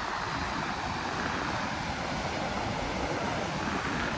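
Steady wash of ocean surf with wind buffeting the microphone as a low, fluttering rumble.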